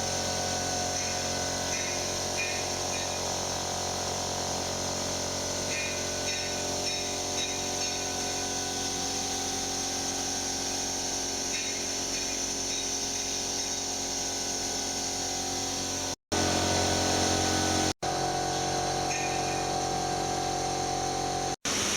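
Wave soldering machine running: a steady mechanical hum with a high hiss and faint intermittent chirps. The sound breaks off for an instant three times near the end.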